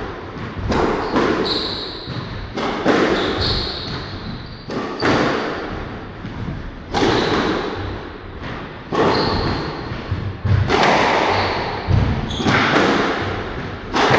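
A squash rally: the ball is struck by rackets and smacks off the court walls in sharp, echoing hits about every one to two seconds, with short squeaks of court shoes between shots.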